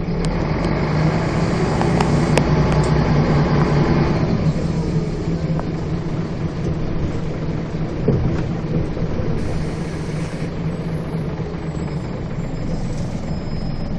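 Scania bus engine under way, pulling harder and rising in pitch over the first few seconds, then easing back to a steadier, quieter run.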